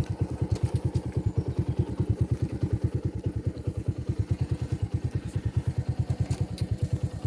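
Motorcycle engine running at low, steady speed: a rapid, even low pulse of about twelve beats a second.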